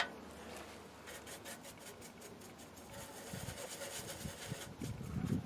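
A brush being worked over the van's metal bumper in quick, repeated rubbing strokes, likely brushing on rust-treatment liquid. A sharp click comes right at the start.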